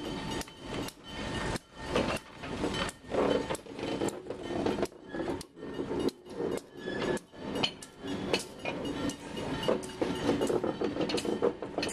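GE C44-9W diesel locomotives rolling slowly past, their wheels on the track making a rapid, uneven series of clicks and knocks over a rumble.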